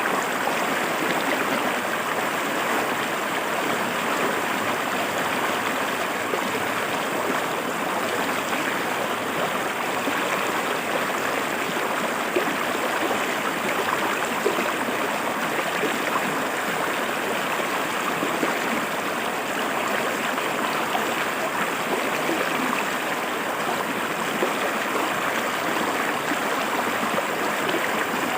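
A clear forest river flowing and splashing over rocks: a steady, even rush with gurgles in it.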